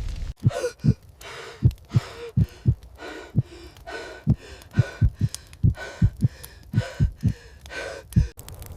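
Heavy, fast breathing in a string of gasping breaths, with short, deep thumps falling between them, like a pounding heartbeat or heavy footfalls. It starts and cuts off abruptly.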